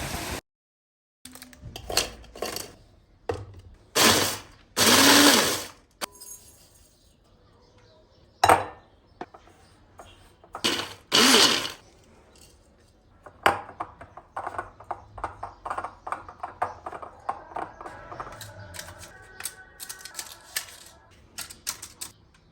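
Household handling sounds: irregular clicks and knocks, with a few rustling bursts about a second long around four, five and eleven seconds in.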